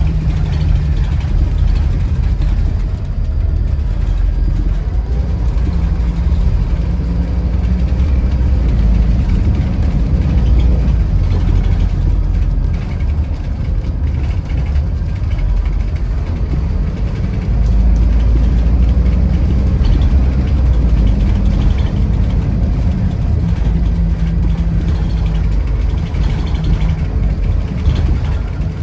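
Scania Irizar i4 coach's diesel engine running steadily under way, a continuous low drone whose note shifts now and then and swells louder for a few seconds past the middle.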